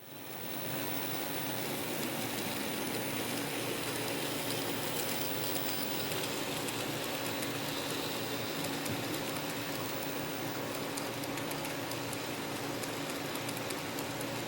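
N-scale model train running on its track: a steady rolling hum with a faint motor tone and light, fast clicking of the wheels.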